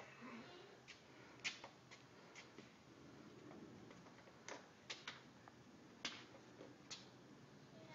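Near silence broken by about ten faint, scattered clicks and ticks at irregular intervals.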